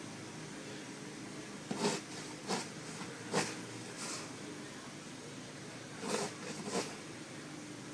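Snow shovel scraping and crunching through deep snow in short strokes, about six of them at uneven intervals, over a faint steady hiss.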